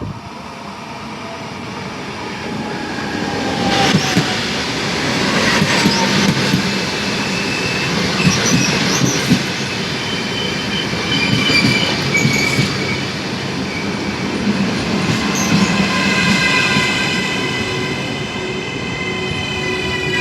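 A train runs along the rails with high, steady squealing from its wheels over the rumble of the cars. It grows louder over the first few seconds.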